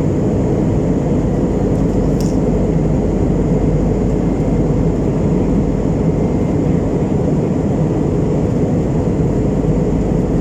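Airbus A321 passenger cabin in flight: the steady rushing noise of the jet engines and airflow around the fuselage, heaviest in the low range and unchanging throughout.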